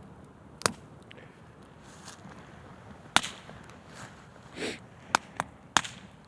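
Wood campfire crackling, with several sharp pops, the loudest about three seconds in and a quick run of them near the end.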